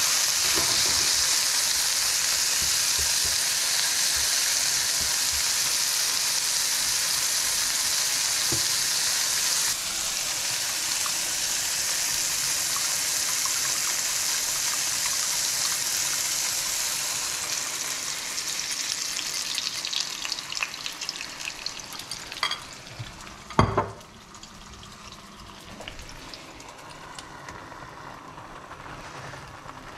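Sliced mushrooms sizzling in a hot frying pan as they are stirred with a spatula. The sizzle softens into sparser crackling in the second half, after beaten egg is poured over them. There is a single loud knock about 24 seconds in.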